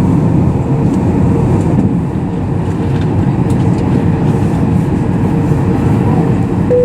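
Steady cabin rumble inside a Boeing 737 MAX 8, with a constant hum held on one pitch.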